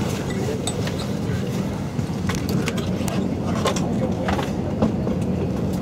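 Steady low rumble of a vehicle interior, with scattered light clicks and rattles and faint background voices.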